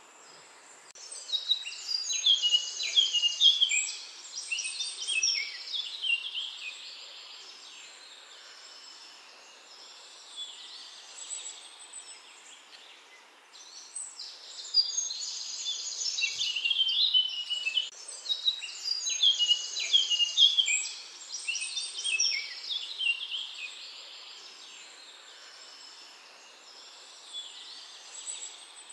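A songbird singing long, complex phrases of rapid chirps and trills in two bouts, the first from about a second in to about six seconds, the second from about fourteen to twenty-three seconds, with quieter calls between, over steady outdoor background noise.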